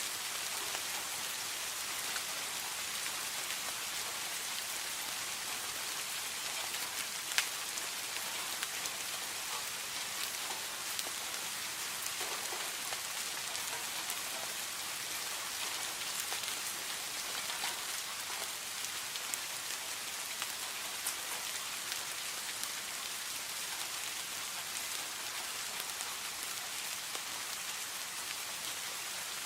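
Steady rain falling, a dense even hiss with scattered individual drops ticking, one a little louder about seven seconds in.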